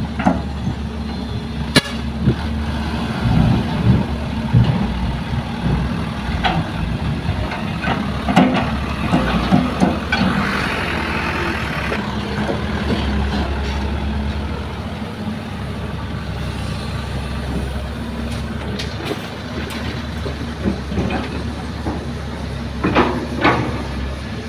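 Heavy diesel engines of excavators and a dump truck running steadily, with a few sharp metallic knocks and a hissing rush about ten seconds in.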